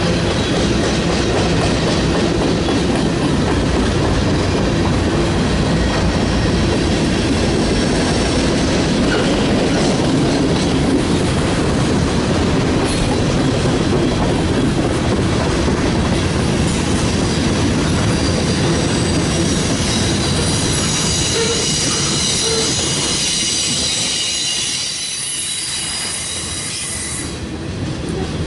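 Railroad cars rolling past on the rails with a steady loud rumble of wheels on track. High-pitched wheel squeal grows strong for several seconds near the end.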